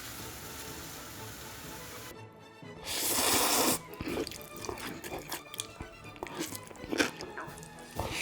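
Background music under kitchen sounds: a brief rush of running water about three seconds in, followed by scattered clinks and knocks of cookware and utensils.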